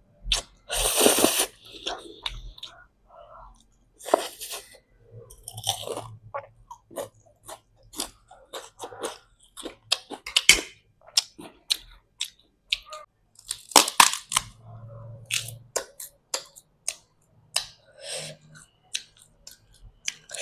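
A person chewing and crunching food close to the microphone, with many quick wet clicks and a few louder bursts, the loudest about a second in and again near fourteen seconds in.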